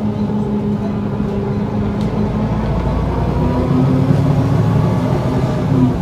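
Volvo B7L bus's diesel engine running, heard from inside the cabin, with its note rising and growing stronger about halfway through as the revs go up.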